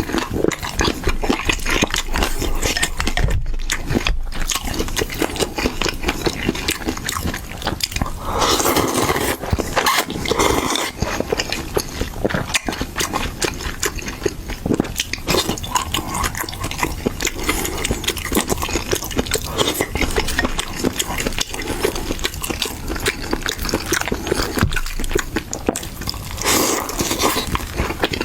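Close-up eating sounds: wet smacking, sucking and crunchy chewing as braised chicken feet are eaten, a constant run of small clicks and squelches.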